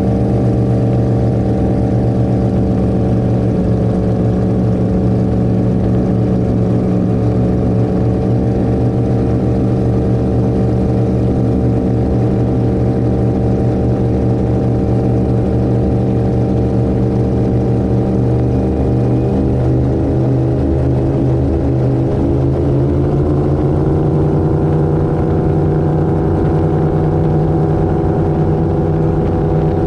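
Twin V8 engines of an Avanti 33 powerboat running steadily at speed, the pitch rising slightly about three-quarters of the way through.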